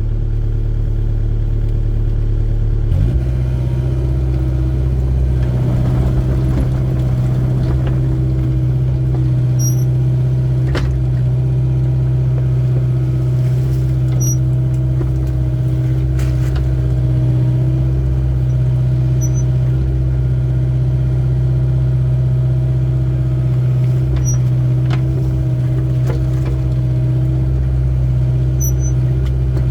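Excavator diesel engine running steadily under working load, its note changing about three seconds in, with a few faint clicks and squeaks from the machine as it digs.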